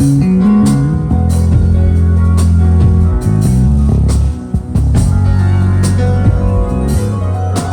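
A live band playing an instrumental at a sound check: a heavy bass line with drum-kit hits and a guitar or keyboard melody.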